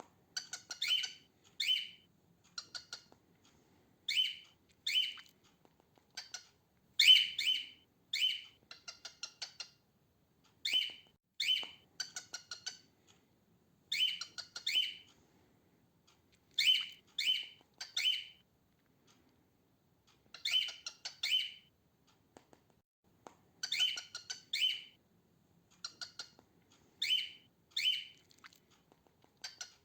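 Female cockatiel calling: short, sharp chirps, mostly in quick pairs, repeated every second or two, with a few faster chattering runs of notes in between.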